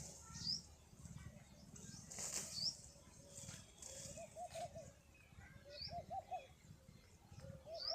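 Pigeons cooing in three short warbling phrases in the second half, with wing flaps earlier and a small bird's brief high chirps recurring.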